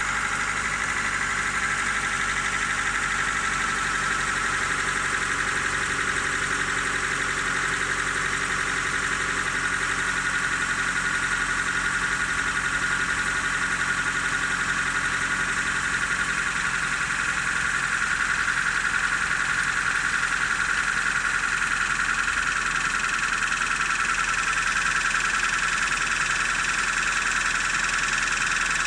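Car engine idling while still warming up, with a rapid, steady knock coming from the lower part of the engine. The knock shows at about 1100–1500 rpm and goes away once the engine is warm.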